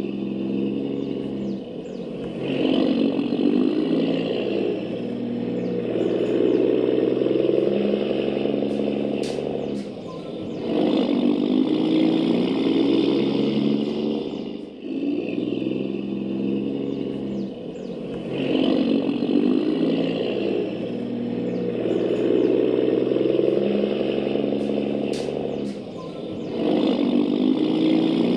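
Truck engine sound from RC trucks, running and revving up and down in repeated swells, with occasional clicks and clatter. The same cycle comes around again about every 15 seconds.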